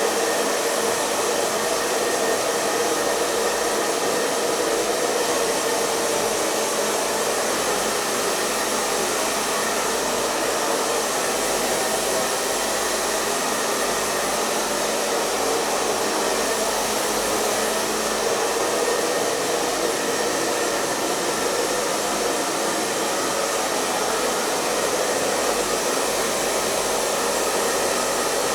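Hair dryer running steadily: an even rush of blown air over a faint motor hum, unchanging throughout.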